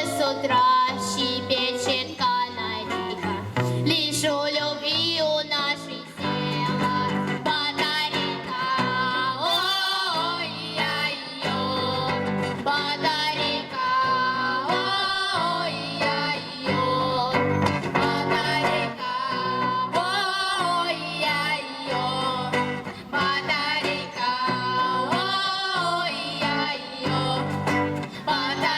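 A song performed by a girls' vocal ensemble, the voices singing over a steady instrumental accompaniment with guitar in it.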